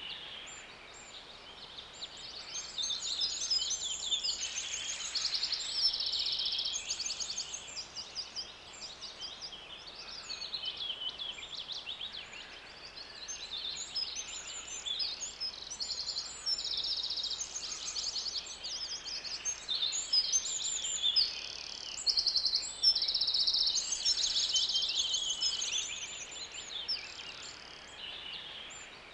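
Songbirds chirping and singing continuously: quick high chirps and fast repeated trills that overlap one another, swelling louder in a few stretches, over a faint steady background hiss.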